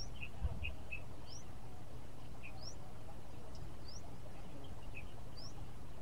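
A bird calling: short upward-sweeping chirps repeated roughly every second and a half, with brief lower notes in between, over a steady low rumble.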